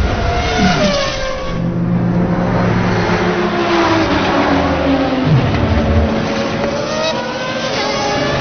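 Race car engines at speed, their pitch gliding down and rising again as the cars pass and accelerate.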